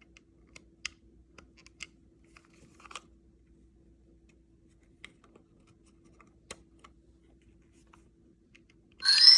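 Faint scattered clicks and handling noises. Near the end, the Super Pig plush's electronic sound module suddenly starts playing a loud, tinny tune with synthetic singing.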